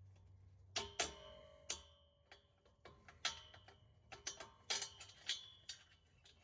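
Loose metal exhaust hardware being handled: a string of sharp, irregular metallic clinks, several ringing briefly.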